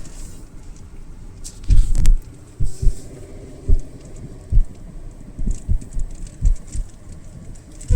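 Car driving on a winding hill road, with low rumbling road noise and irregular low thumps.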